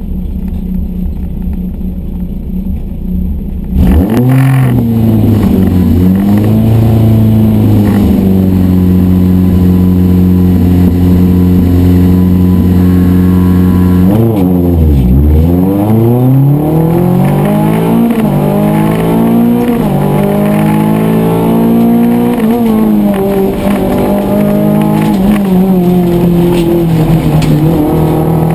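Rally car engine heard from inside the cabin: idling, then revved hard about four seconds in and held high at the start line. About fifteen seconds in the revs dip sharply and climb again as the car pulls away, then rise and fall repeatedly through the gear changes.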